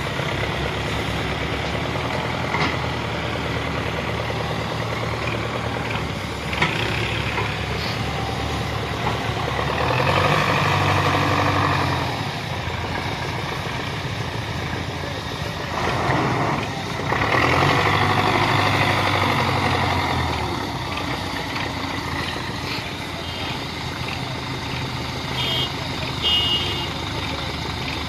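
Diesel tractor engine running steadily, revving up hard twice under load, with a few short high beeps near the end.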